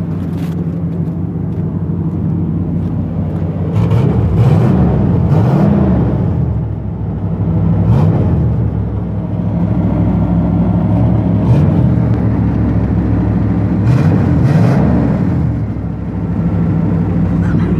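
Chevy 350 V8 on stock exhaust, running and revved up and back down several times between stretches of steady running. It has an exhaust leak.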